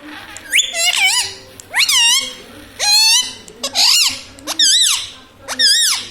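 Indian ringneck parrot calling: a series of about seven short, high-pitched squawks whose pitch wavers up and down.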